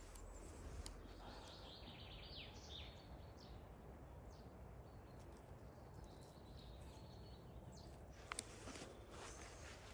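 Quiet outdoor ambience: a low steady rumble with a few faint bird chirps, and a single sharp click a little after eight seconds in.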